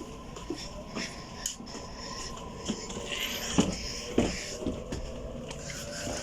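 Electric suburban train running, a faint steady whine under a hiss, with several short knocks and clicks, the loudest about three and a half and four seconds in.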